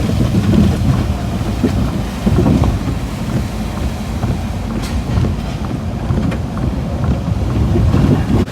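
Strong hurricane wind buffeting the microphone: a loud, heavy low rumble that swells and eases in gusts.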